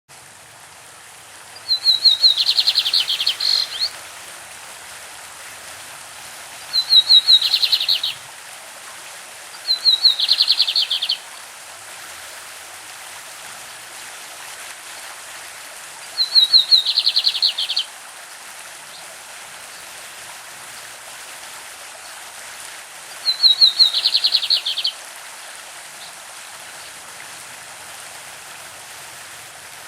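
Lined seedeater (bigodinho) singing its classic song: five short phrases, each a few quick high notes running straight into a fast rattling trill, with pauses of several seconds between them. A stream runs as a steady rushing hiss throughout.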